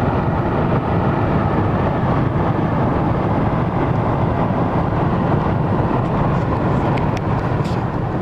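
Steady road and engine noise inside the cabin of a moving car, with a few faint ticks near the end.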